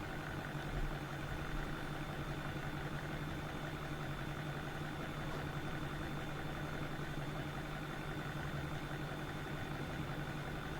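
Steady low hum with a thin, high-pitched whine over it, unchanging and without distinct clicks or knocks.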